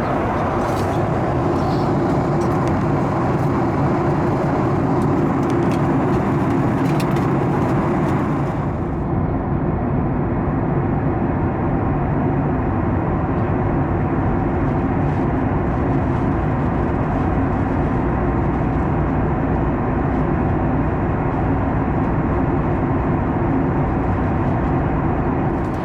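Steady cabin noise of a Boeing 737 MAX 9 in cruise: the CFM LEAP-1B engines' drone and the rush of air past the fuselage, heard from a seat inside the cabin. About nine seconds in the upper hiss turns duller while the low drone carries on unchanged.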